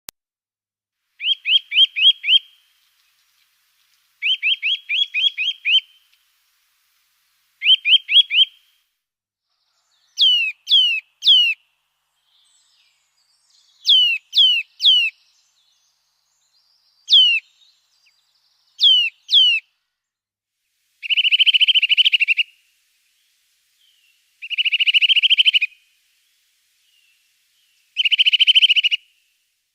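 A songbird singing in separate short phrases, each phrase type repeated several times before switching: first a quick run of downslurred notes three times, then a group of longer sweeping whistles four times, then a buzzy trill three times.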